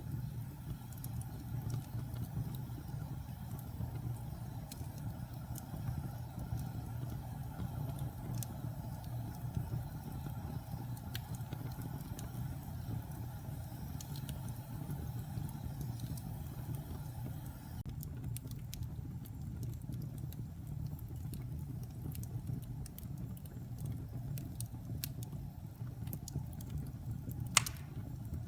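Wood-burning fireplace: a steady low rumble of burning logs with scattered small crackles and pops. One sharp, much louder pop comes near the end.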